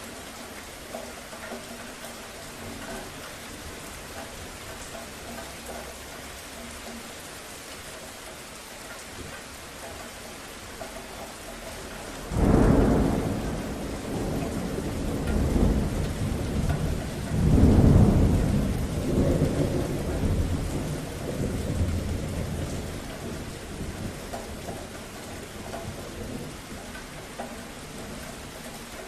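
Steady rain falling, with a thunder roll that breaks in suddenly about twelve seconds in and rumbles on in several deep swells before fading away.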